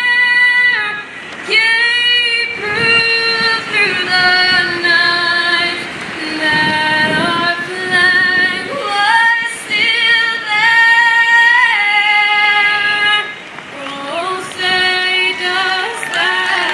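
A woman singing a national anthem solo, holding long sustained notes phrase by phrase, with a rising, held note near the end.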